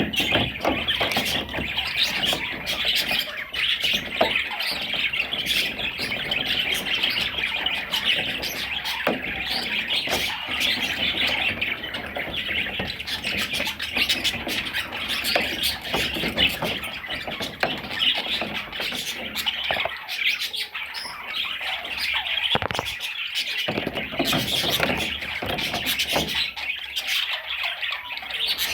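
Budgerigar chattering and warbling without a break: a dense run of rapid chirps, clicks and squawky notes.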